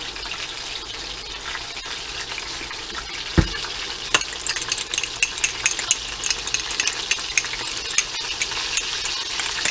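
Oil sizzling steadily as tofu sticks fry. About a third of the way in there is a single dull thump, and from about four seconds in a metal spoon clinks and scrapes against a small glass, several clicks a second, as a sour cream, hot sauce and ketchup sauce is stirred.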